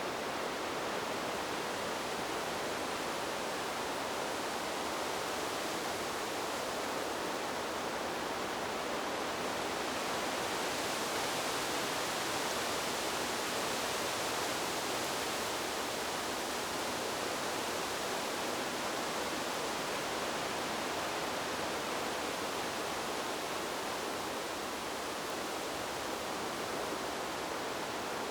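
Wind blowing steadily through tree foliage, a continuous even hiss that swells and brightens a little about ten seconds in.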